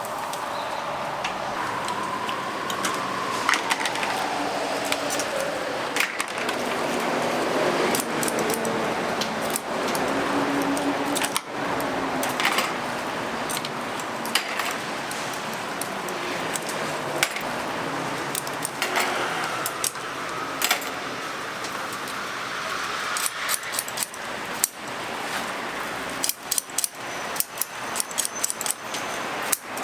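Metal clinking and clattering over a steady background noise, the clicks coming thicker near the end, with a falling tone a few seconds in.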